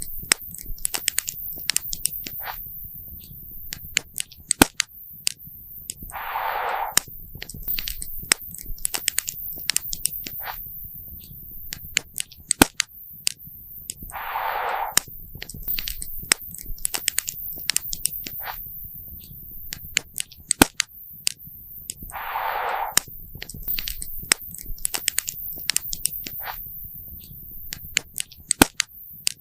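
Campfire crackling and popping, with irregular sharp snaps over a low steady rumble. A short hissing rush comes about every eight seconds, three times.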